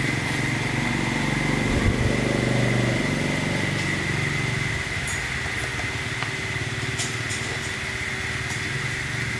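Small motorcycle engine running at idle with a fast, even firing pulse, picking up briefly about two seconds in and then settling back.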